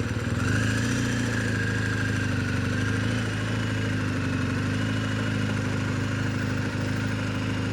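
BMW R1250GS boxer-twin motorcycle engine running at steady revs.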